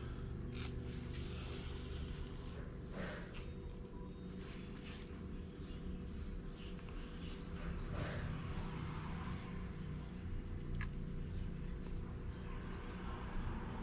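Small bird chirping in short, quick high notes, sometimes two or three in a row, over a steady low hum, with a few faint clicks.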